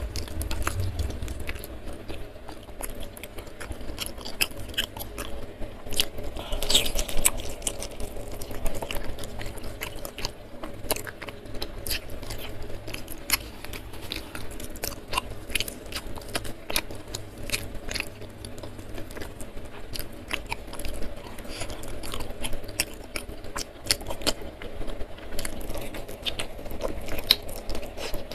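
Close-miked chewing and biting of fried chicken eaten by hand, with crunchy bites and many short wet mouth clicks, loudest about seven seconds in.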